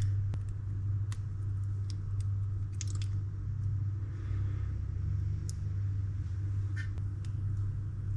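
Steady low hum in the background, with a few faint, sharp clicks and ticks from small reel parts being handled on the bench.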